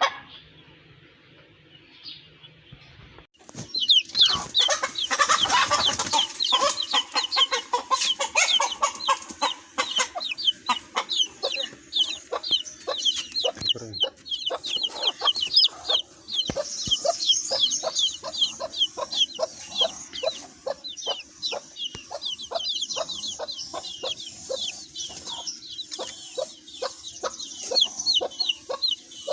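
Flock of Australorp chickens clucking and calling, a dense run of short calls that starts about four seconds in.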